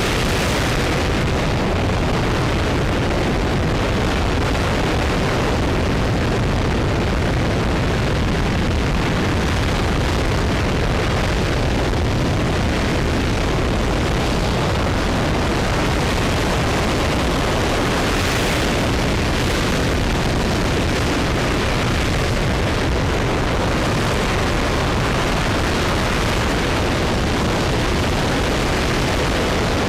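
RS-25 liquid-hydrogen/liquid-oxygen rocket engine firing on a test stand: a continuous, loud, dense roar with a deep low rumble, holding steady without letup.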